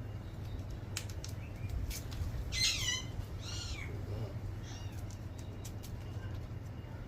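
Parrot calling: one loud harsh squawk about two and a half seconds in, followed by three shorter, fainter calls, over a steady low hum. A few sharp clicks come just before the first squawk.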